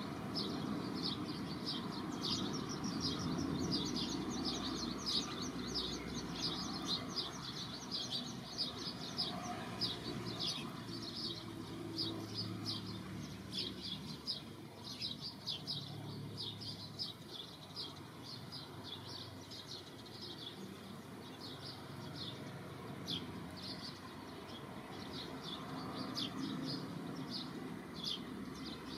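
Birds chirping, a rapid run of short, high, falling chirps several times a second, over a low outdoor rumble.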